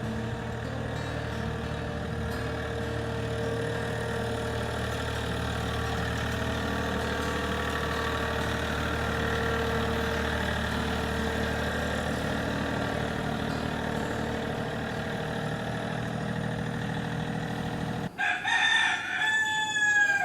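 An engine running steadily for most of the time. Near the end, after a break in the sound, a rooster crows once, a long call falling in pitch and louder than the engine.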